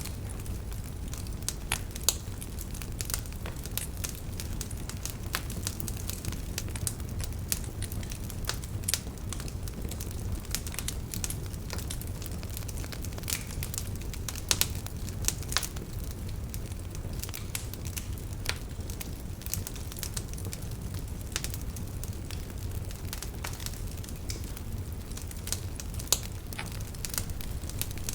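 Wood fire burning in a fireplace: a steady low rumble of the flames with irregular crackles and sharp pops from the burning logs, several every second.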